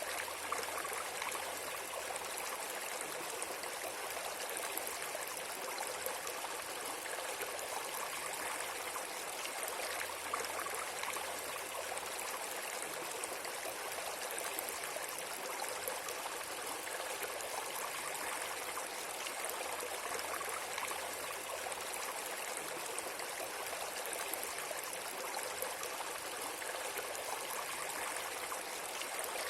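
Steady, even rushing noise like flowing water, with no rhythm and no breaks.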